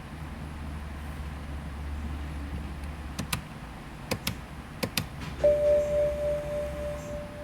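Several sharp clicks in the car, then about two seconds from their end a steady electronic chime tone that holds for about two seconds, over a low hum.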